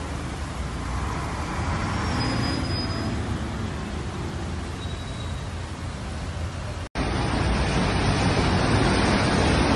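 Traffic on a flooded street in heavy rain: a steady rush of engines, tyres and water. The sound drops out for an instant about seven seconds in and comes back louder.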